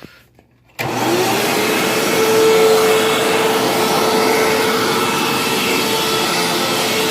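Hoover WindTunnel upright vacuum cleaner switched on about a second in, its motor rising in pitch as it spins up, then running steadily with a whine over a dense rush of air.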